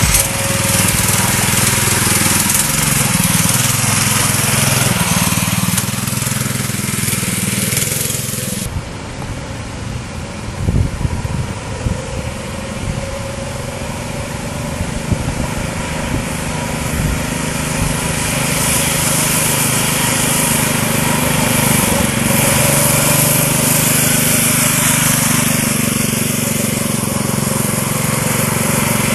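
Mini bike's small single-cylinder four-stroke engine running, its speed rising and falling. About nine seconds in it turns quieter and duller, and it grows louder again about two-thirds of the way through.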